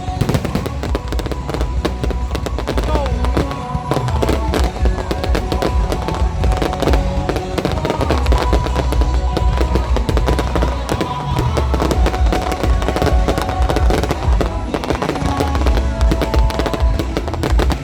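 Fireworks bursting and crackling in rapid, continuous volleys, over loud music with a heavy bass.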